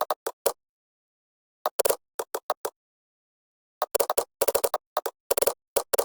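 Computer keyboard typing: quick runs of key clicks with pauses between them, a short run about two seconds in and a faster, longer run from about four seconds on.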